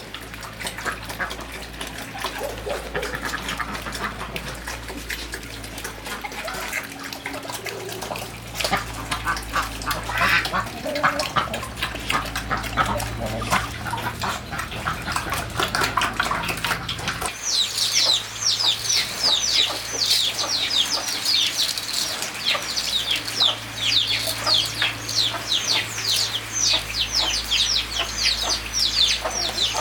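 Farm poultry calling: irregular calls and knocks at first, then from about 17 seconds in a dense chorus of short, high, falling chirps, several a second.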